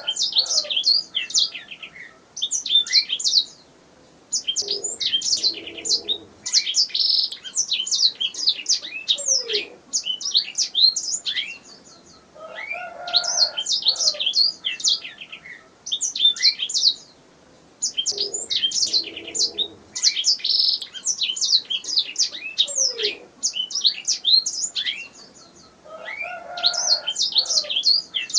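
Domestic canary singing: fast phrases of high chirps and trills, several seconds long, broken by short pauses, with softer, lower notes underneath now and then.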